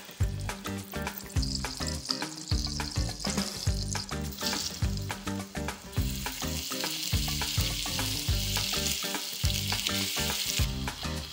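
Butter and oil sizzling in a frying pan, then a pan of sliced red onions frying and being stirred with a spatula. The sizzle grows louder and fuller about halfway through and eases off a little before the end.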